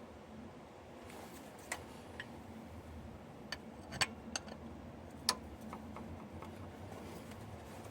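A handful of sharp clicks and taps, about six spread unevenly over a few seconds, the loudest around the middle, over a low steady background hum.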